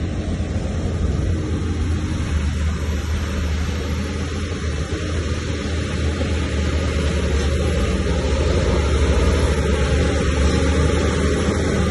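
Diesel engine of heavy earthmoving machinery running steadily, with a strong low drone and a constant hiss over it.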